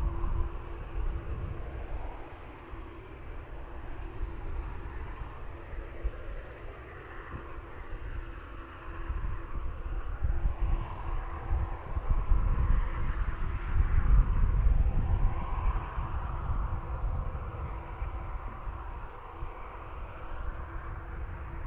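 Jet aircraft rumbling, growing louder midway and easing off again, with a steady faint hum underneath.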